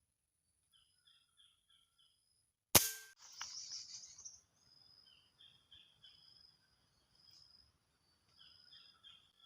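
A single sharp air-rifle shot about three seconds in, followed by a brief rustle. Small birds chirp in short repeated calls throughout.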